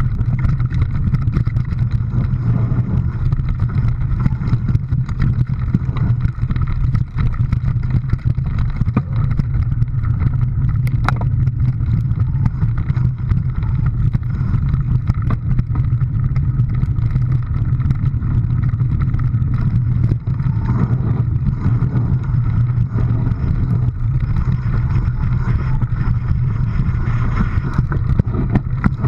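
A steady, loud low engine drone with rumbling noise, as heard from on board a moving vehicle.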